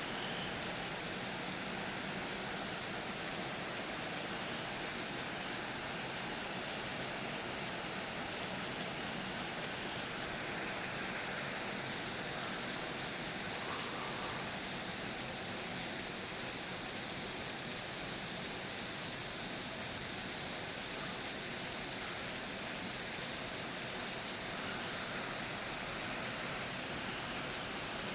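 Steady rushing storm noise, an even hiss with no thunder or separate strokes.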